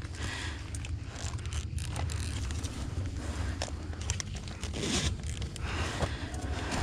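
Close rustling and scraping with scattered small clicks over a steady low rumble, typical of clothing and gear moving against a body-worn microphone.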